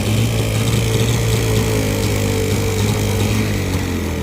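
Small outboard motor on a flat-bottom boat running steadily at low throttle, its pitch easing down slightly. The owner says the motor is still running a little sick.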